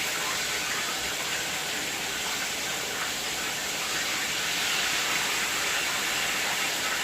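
Chicken pieces frying in hot oil, a steady sizzle that holds evenly throughout.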